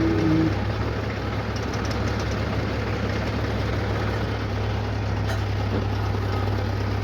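Heavy diesel engine of a JCB or tractor running steadily with a low hum.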